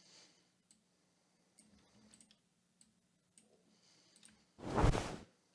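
Scattered computer mouse clicks, then about four and a half seconds in a single designed dragon wing flap plays back: one loud, heavy whooshing swell with strong low end, lasting under a second.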